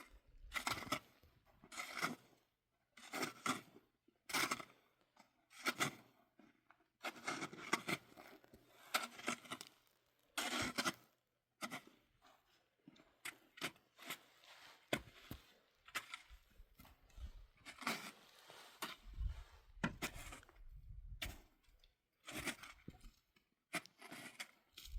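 Snow shovel scraping and crunching through snow in repeated strokes, about one every second or so, some short and some drawn out.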